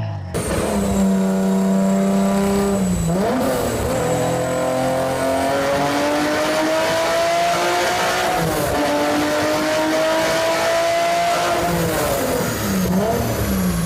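Toyota 2JZ straight-six engine held at a steady note, then pulling hard with the revs climbing slowly, broken by a gear shift about eight and a half seconds in. The revs fall away near the end.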